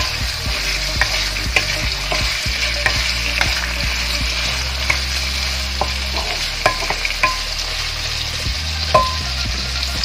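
Raw pork, onion and tomato sizzling in oil in a stone-coated wok while a wooden spatula stirs them, with frequent scraping clicks of the spatula against the pan. A few short ringing taps come in the second half.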